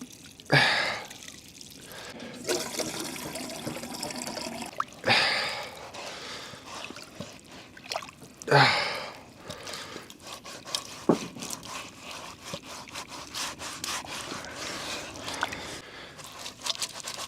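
Water splashing as it is tipped out of a hot cast iron camp oven, in three loud surges, followed by a run of quick light scraping and clicking.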